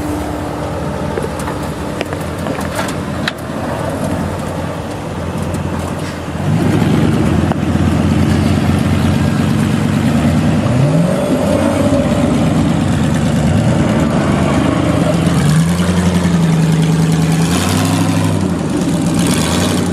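Off-road 4x4's engine working over a trail climb, revving up and down repeatedly and louder from about six seconds in. A few sharp knocks sound about two to three seconds in.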